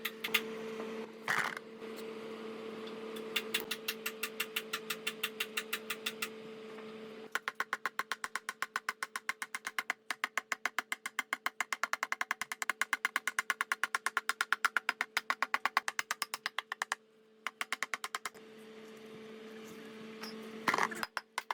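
Rapid, evenly spaced mechanical clicking, about four or five clicks a second, over a steady low hum, with a few louder single knocks near the start and near the end.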